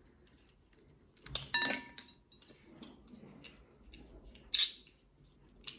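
A plate clinking as it is knocked: a couple of ringing clinks about a second and a half in, then a few lighter taps and another knock near the end.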